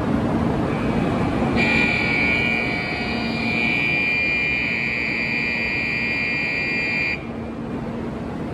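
Kyushu Shinkansen train pulling slowly along the platform, a steady rumble from its running gear. About one and a half seconds in, a steady high electronic buzzer tone starts on the platform and cuts off abruptly about five seconds later.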